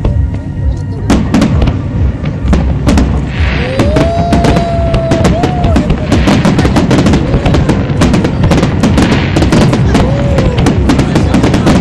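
Aerial fireworks display: shells bursting in rapid succession, many sharp bangs and crackles that become dense about a second in and keep up without a break.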